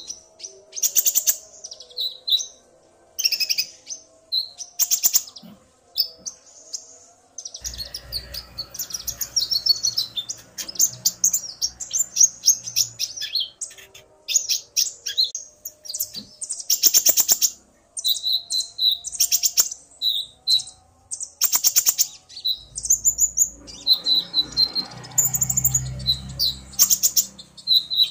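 Konin (kolibri ninja) sunbirds, male and female, calling back and forth in quick bursts of high, sharp chirps and short trills, the male singing hard in answer to the female. Two stretches of low rumble run underneath.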